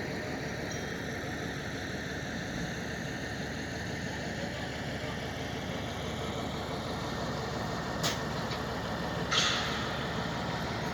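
An engine idling steadily, with a sharp click about eight seconds in and a short hiss about a second later.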